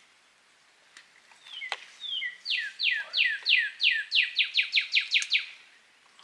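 A bird calling: a series of about a dozen clear, downslurred notes that come faster and faster, which the hunters think might be a jay. A couple of sharp clicks come just before.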